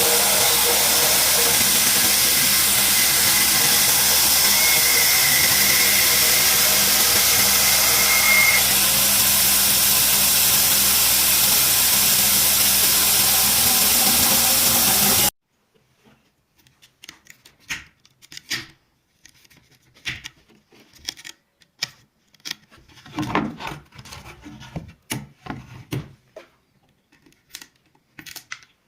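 A power tool running steadily against the wood of a cricket bat, then cutting off suddenly about halfway through. After it come scattered light knocks and scrapes of hand work on the bat.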